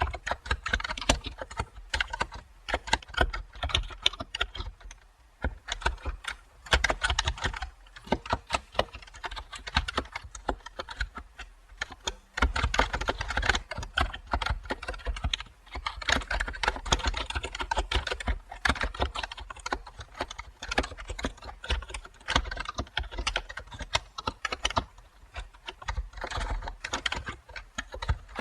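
Typing on a computer keyboard: a fast, continuous patter of key clicks in runs, with short pauses now and then.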